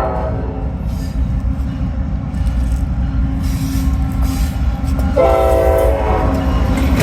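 GE diesel freight locomotive's air horn sounding over the steady low rumble of the locomotive and train. The tail of one blast ends just after the start, and another blast of about a second comes about five seconds in.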